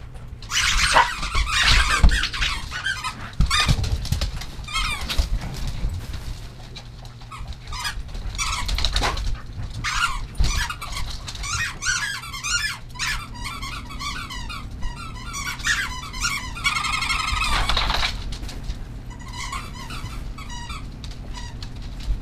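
Several small animals squeaking in high, wavering calls, many short ones overlapping, with one longer held call about seventeen seconds in.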